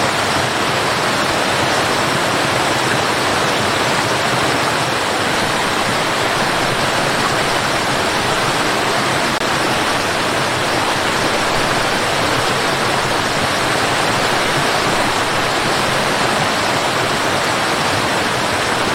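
Tall waterfall crashing steadily: a constant, even rush of falling water with no breaks.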